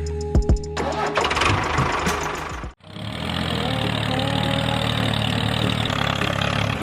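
An engine running steadily. It is broken by a sudden cut to silence about three seconds in, then carries on evenly.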